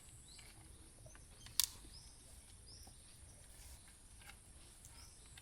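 Quiet outdoor background: a few faint, short, high chirps and one sharp click about a second and a half in.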